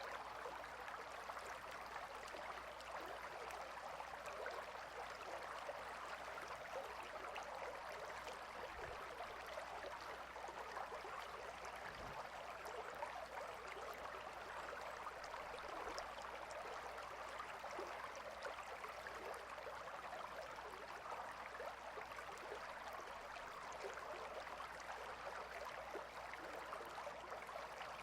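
A gently flowing river: a steady, unbroken rush of running water.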